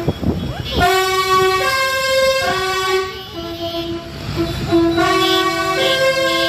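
A vehicle's musical horn playing a tune of long held notes that step from one pitch to the next.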